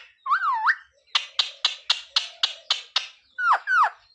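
Parrot making a short whistled glide, then a run of about eight sharp clicks at roughly four a second, then two quick falling calls near the end.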